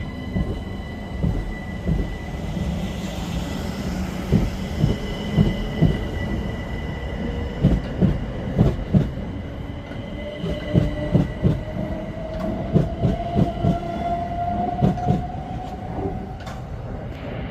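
Electric passenger train running along the platform, its wheels clattering over rail joints in irregular runs of knocks. A motor whine rises slowly in pitch over the second half as the train gathers speed.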